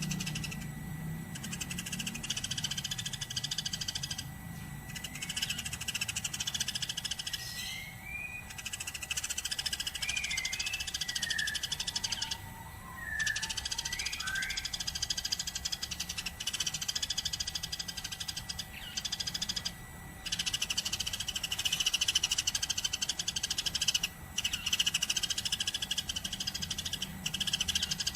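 Eurasian tree sparrow chirping without a break in long runs of rapid, high chatter, stopping briefly every few seconds. A few clearer slurred whistle notes come through in the middle.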